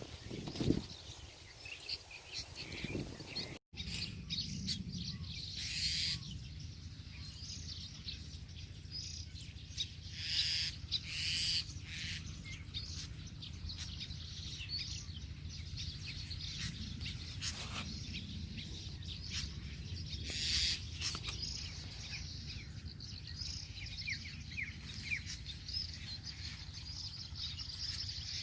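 Many small birds chirping and calling over one another, with a few louder calls now and then, over a steady low rumble of wind on the microphone.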